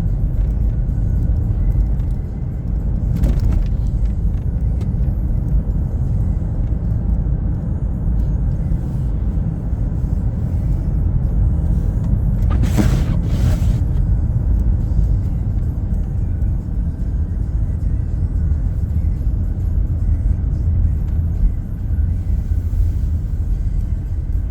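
A car's road and engine noise heard from inside the cabin while driving: a steady low rumble, with a brief hiss about 3 seconds in and a longer one about 13 seconds in. Music plays along with it.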